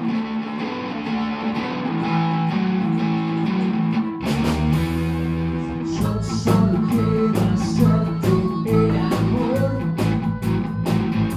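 Live blues-rock band playing: an electric guitar alone at first, then bass and a cymbal come in about four seconds in, and the drum kit joins with a steady beat from about six seconds.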